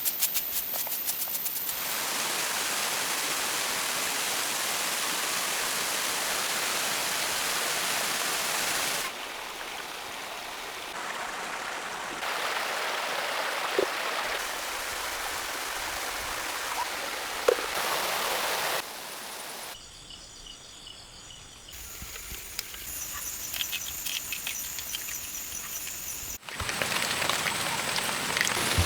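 Rainforest ambience cut together from several short shots: a steady hiss of falling or running water whose level jumps at each cut. High insect calls come in at the start and again about two-thirds of the way through.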